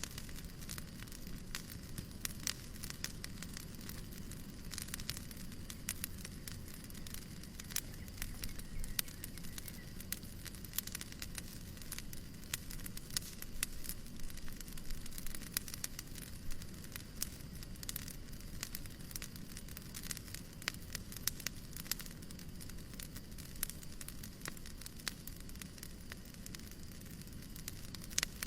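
Wood fire crackling: frequent irregular pops and snaps over a steady low rumble and soft hiss.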